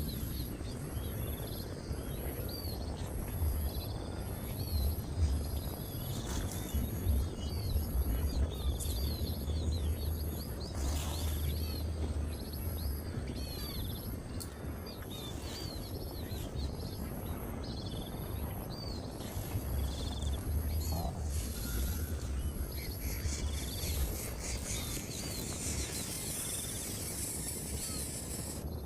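Outdoor birdsong: a bird gives short, sharp chirps over and over, about one a second, above a regular high pulsing buzz and a low rumble of wind on the microphone.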